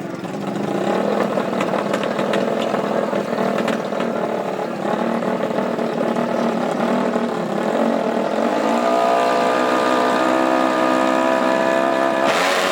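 Small off-road racing engine running; about eight seconds in its pitch climbs and then holds steady at high revs. A broad rush of noise comes in near the end.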